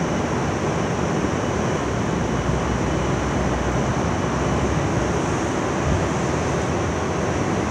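Steady city street noise: a constant rumbling hiss with no distinct events.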